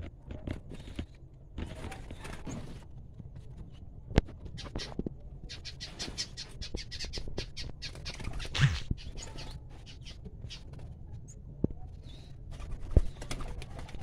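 Small cage birds chirping in quick, repeated short calls, busiest in the middle, over a low rumble. Two sharp knocks stand out, about four seconds in and near the end.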